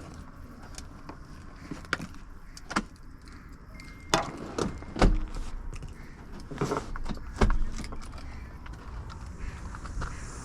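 A series of sharp clicks and knocks, irregularly spaced, with a short steady beep about four seconds in: parts of a car's cabin such as a door, latches or controls being worked.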